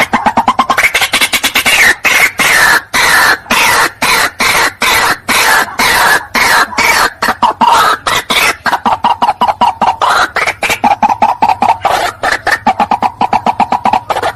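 White-breasted waterhen calling: a fast, unbroken run of short repeated notes, several a second. Their pitch slides gradually downward, then holds steady through the last few seconds.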